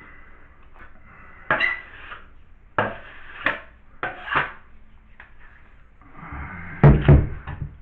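Drywall taping knife working joint compound: a series of short scrapes and metal clacks as mud is loaded and spread, the loudest pair coming close together near the end.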